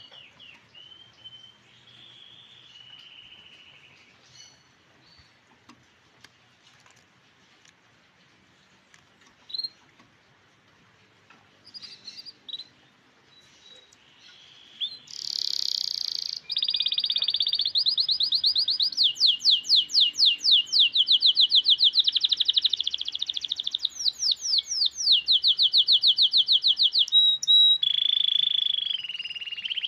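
Grey canary singing: a few soft chirps at first, then from about halfway a loud, long song of fast rolling trills and repeated notes.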